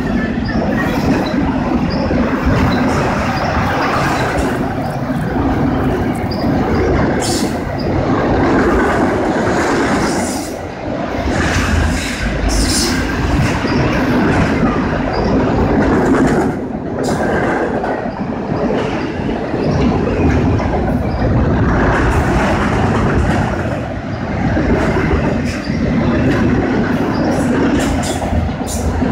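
Train cars rolling past close by, steel wheels running on the rails in a loud steady rumble with a few sharper clicks.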